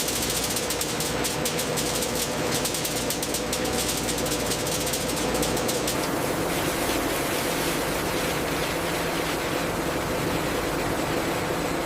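Factory machinery running steadily with a fast, dense rattle; the rattle thins out about halfway through, leaving a smoother mechanical hum.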